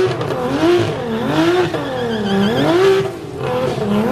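A car engine revving up and down in repeated throttle blips, its pitch climbing and falling about once a second.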